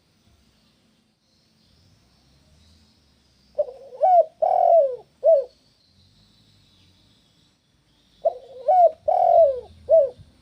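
Spotted dove (tekukur) cooing: two phrases about four and a half seconds apart, each of four notes — a short note, a rising note, a longer falling note and a short final note.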